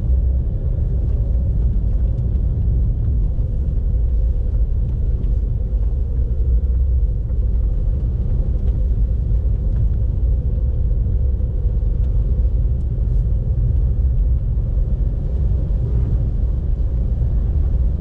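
Car driving at steady speed: an even, low rumble of road and engine noise.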